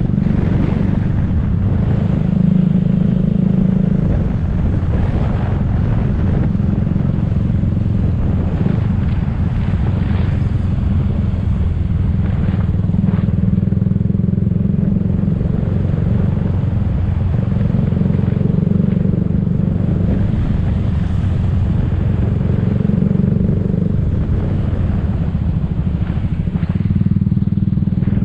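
Motor scooter running at a steady pace while being ridden through city traffic, a continuous low rumble of engine and road noise with no pauses.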